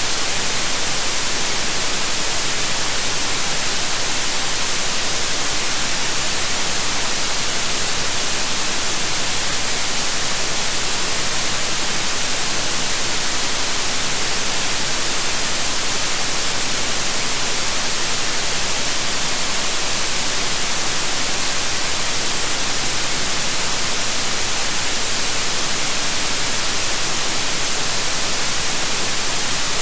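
Steady white noise: an even, unchanging hiss, bright and strong in the treble.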